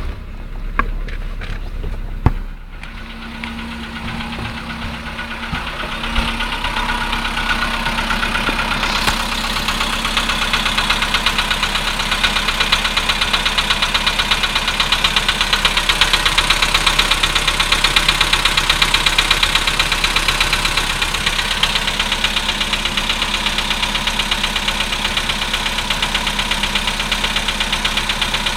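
Volkswagen Polo Sedan engine idling just after a cold start, with a fast, even knocking that grows louder within the first ten seconds: the cold-start knocking the owner is recording.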